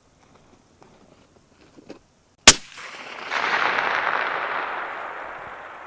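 A single rifle shot about two and a half seconds in, sharp and loud, with a few faint clicks before it. From about three seconds in comes a long wash of noise that slowly fades.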